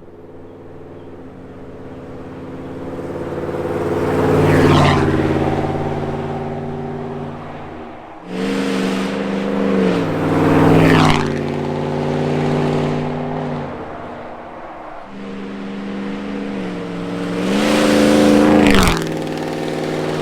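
Three drive-bys of a 2021 Ford F-150's Whipple-supercharged 5.0 V8 through long-tube headers, high-flow cats and a Corsa Extreme cat-back exhaust, at about 30, 50 and 70 mph. Each pass rises to a loud peak and drops in pitch as the truck goes by.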